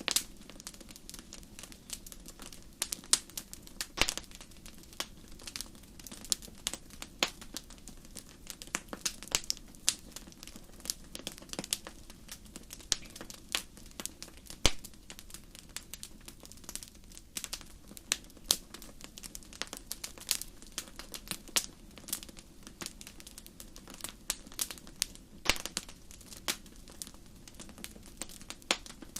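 Wood fire crackling in a fireplace: irregular sharp pops and snaps, several a second, over a steady low background, with one louder pop about halfway through.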